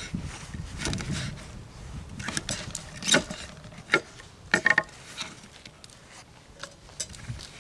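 Knife cutting vegetables on a cutting board: irregular taps and knocks of the blade, with a quick run of three knocks a little past the middle.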